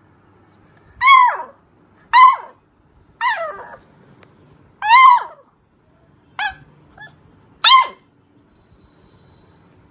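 A dog giving about six high-pitched yelping barks at uneven intervals. Each bark rises briefly in pitch, then drops away.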